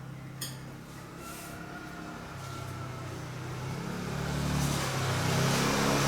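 A motor vehicle going by, its noise building and growing louder toward the end, over a steady low hum, with one click about half a second in.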